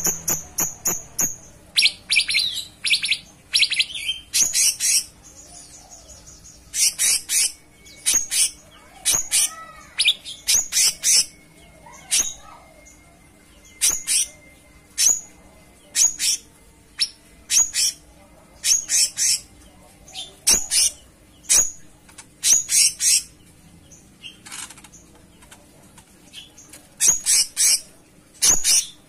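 Cucak cungkok songbird singing: short, high, rapid chirping phrases repeated about once a second, with brief pauses between them.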